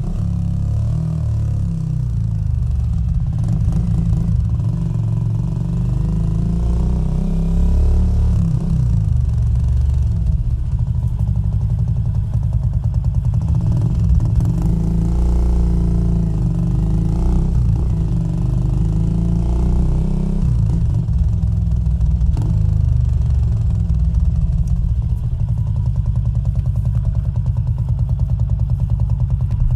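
Exhaust of a small-displacement single-cylinder custom motorcycle running on the road, a steady low rumble whose pitch rises and falls a little as the engine speed changes.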